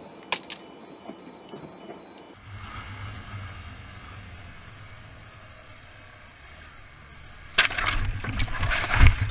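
A car's road and engine rumble heard from inside, broken about three-quarters through by a sudden loud crash-like impact. The noise lasts over a second, with a heavy thump near the end. In the first two seconds there are a few clicks and a repeating electronic beep.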